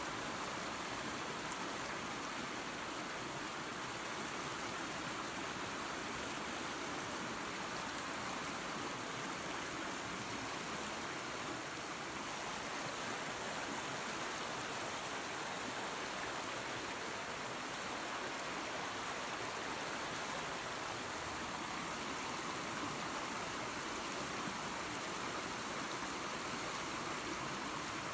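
Small waterfall and creek running water: a steady, even rushing.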